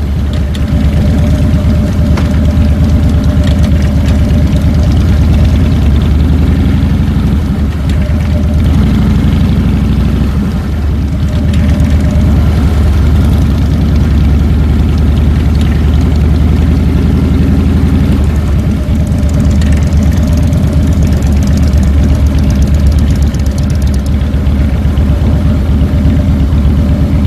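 Harley-Davidson Fat Boy's air-cooled Twin Cam 96 V-twin engine running steadily.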